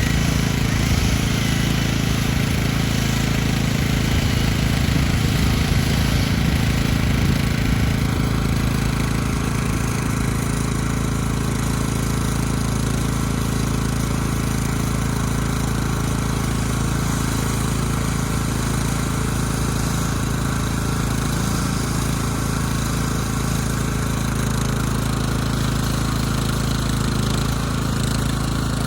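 Chainsaw engine running steadily at speed, as in a felling cut, with a deeper rumble that eases off about eight seconds in.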